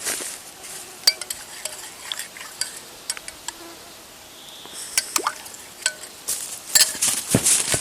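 Irregular light clicks, knocks and clinks with rustling, as of objects being handled; the rustling and knocks grow busier and louder near the end.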